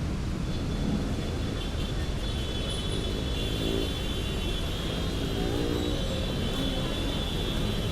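City street traffic: the steady running of vehicle engines, with a high steady whine laid over it from about half a second in.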